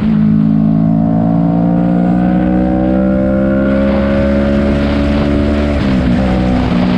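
Motorcycle engine pulling steadily under way, its pitch rising slowly as the bike gathers speed. About six seconds in the pitch breaks and drops, then settles lower: a gear change up.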